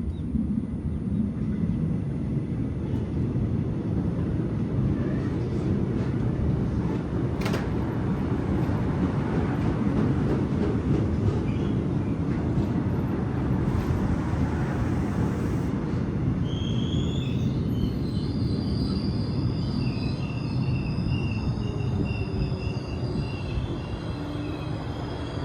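Train running on the rails with a steady rumble of wheels on track and one sharp click about seven seconds in. From about two-thirds in, a high-pitched squeal of steel wheels joins the rumble.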